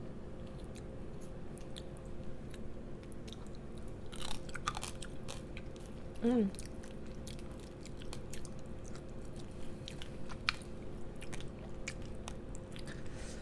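Close-miked chewing, with many small wet clicks and smacks of the mouth working through food, and a brief hummed "mm" about six seconds in. A faint steady hum runs underneath.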